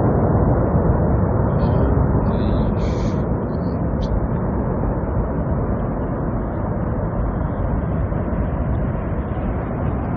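Avalanche: a loud, steady low rumble of moving snow that eases slightly toward the end.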